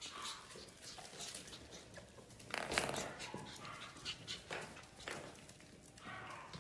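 Eight-week-old Biewer terrier puppies making small noises: faint whimpers with scattered light clicks and scuffling as they move about, and a louder scuffle about two and a half seconds in.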